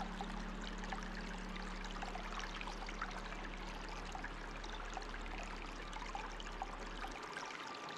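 Running water flowing and splashing steadily, with many small drips and trickles. A low steady hum underneath stops about seven seconds in.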